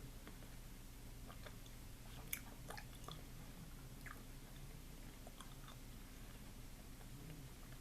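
Faint mouth sounds of someone chewing a chewy fruit pastille: small wet clicks, with one sharper click about two seconds in, over a low steady hum.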